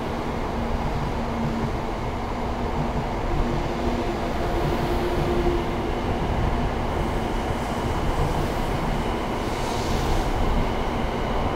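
A 700 series Shinkansen train pulling out of a station and gathering speed, its cars passing close by with a steady rumble of wheels and running gear. A faint hum steps up in pitch during the first few seconds.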